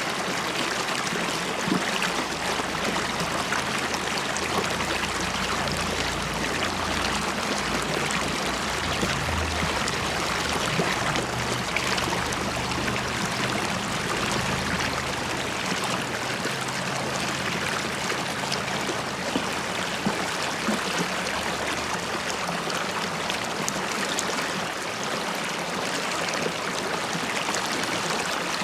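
River water flowing steadily, bubbling and gurgling as it runs.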